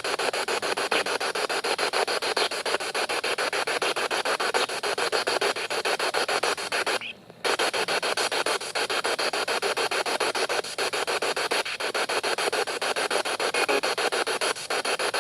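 SB7 spirit box sweeping through radio stations, a rapid choppy hiss of static from its speaker. It cuts out briefly about seven seconds in.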